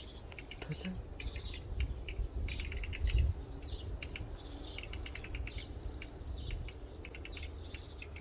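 Small songbirds chirping: short, high chirps repeating about twice a second, some in quick pairs, over a faint low rumble.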